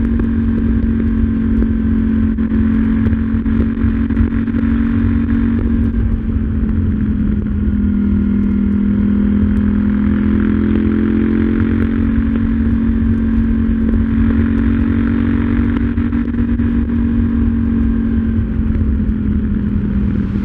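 KTM 790 Duke's parallel-twin engine running steadily under way, its pitch shifting a little around the middle.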